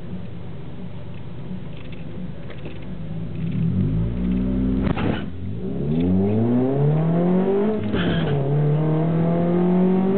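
Scion tC four-cylinder engine idling at the drag strip start line, then launching about three and a half seconds in and revving hard. The pitch climbs, breaks off briefly near five seconds and again near eight as it shifts gears, and climbs again after each shift.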